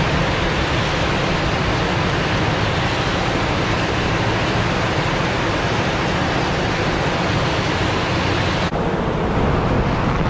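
Heavy downpour of rain, a loud steady hiss; near the end the sound abruptly turns duller.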